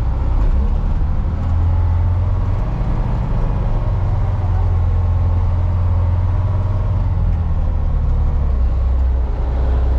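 Off-road haul truck driving off-road, heard from inside its cab: the diesel engine and drivetrain making a loud, steady low drone.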